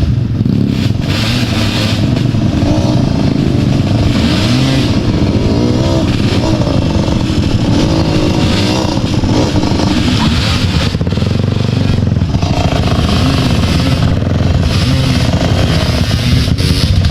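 A vehicle engine working hard, its pitch rising and falling again and again as it revs through a river crossing.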